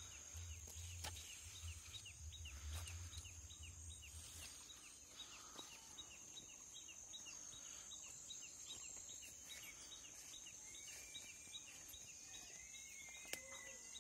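Faint birdsong ambience: a bird repeats a short chirp about four times a second until about ten seconds in, over a steady high whine. A few whistled, gliding bird calls come near the end, and a low rumble runs through the first four seconds.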